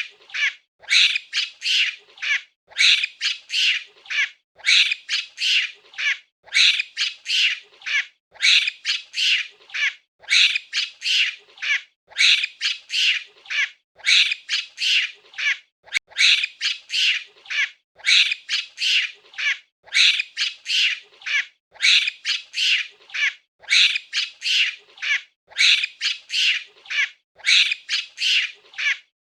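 Monkey calls: groups of three or four shrill squawking calls repeating about every two seconds in a steady, looped pattern.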